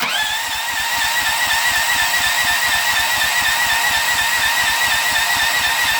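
Electric starter cranking a Honda 15 hp engine that does not fire: a high, steady starter whine over a rapid, even chugging of compression strokes. No ignition catches, which the owner suspects is a fault in the ignition switch or kill wire.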